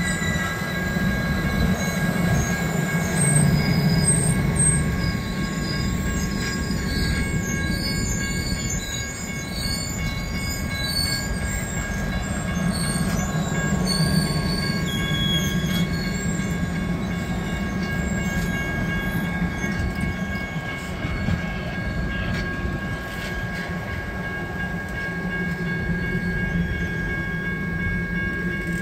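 Passenger railcars rolling past on steel rails: a steady low rumble of wheels and trucks with a thin, steady high-pitched wheel squeal over it and scattered higher squeaks.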